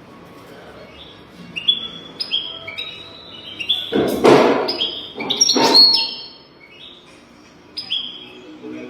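European goldfinch singing: a run of short chirps, each sliding down in pitch, in quick succession, with two brief harsh, noisy bursts in the middle of the phrase.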